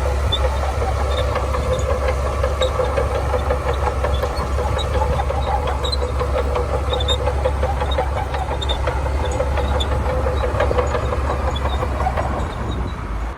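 Shantui crawler bulldozer's diesel engine running steadily under load, with a fast clatter over it.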